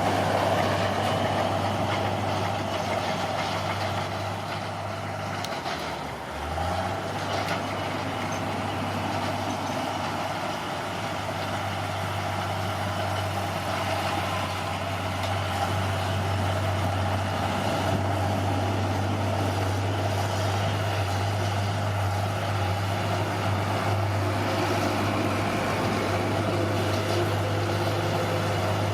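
Bulldozer's diesel engine running steadily; about six seconds in the engine note drops briefly and then climbs back up.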